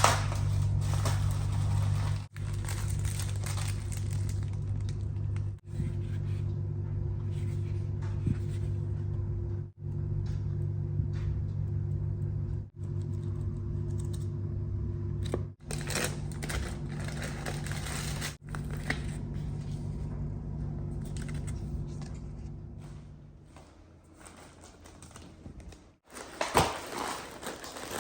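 A steady low electrical hum from a running appliance, with light handling noises over it; the hum stops about three quarters of the way through, and crinkling follows near the end.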